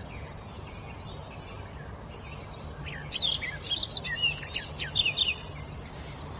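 A songbird singing a quick burst of varied, sliding whistled notes about halfway through, with fainter calls before it, over steady low background noise.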